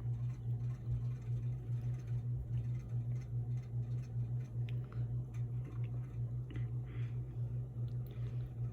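A steady low hum with a quick pulse. Faint clicks and rustles of items being handled come in over it about halfway through.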